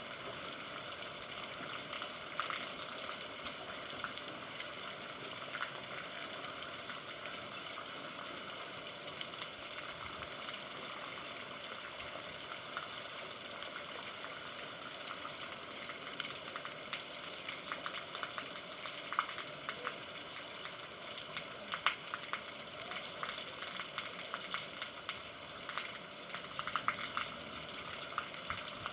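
Steady rain falling: a dense, even hiss with scattered sharper drop ticks, which come more often in the second half.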